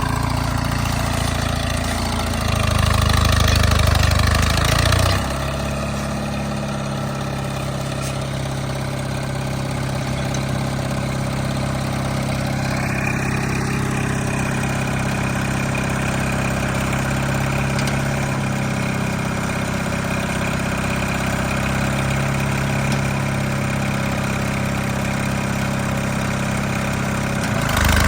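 Allis-Chalmers HD5 bulldozer's engine running steadily. It is louder and deeper for a couple of seconds early on, then settles into an even run about five seconds in.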